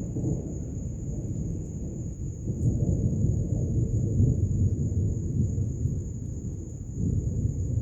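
Rolling thunder rumbling low and continuously from a thunderstorm, swelling louder about two and a half seconds in before easing off.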